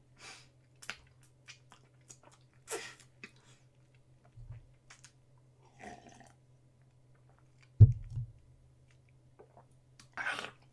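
Mouth sounds of eating a syrupy peanut butter and jelly sandwich: scattered soft wet smacks and clicks of chewing. One loud low thump about eight seconds in, over a steady low hum.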